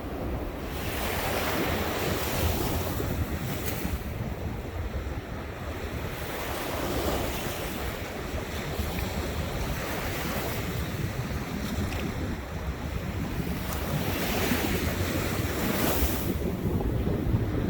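Ocean surf: waves breaking and washing up the shore, the hiss swelling every few seconds. Wind buffets the microphone underneath with a steady low rumble.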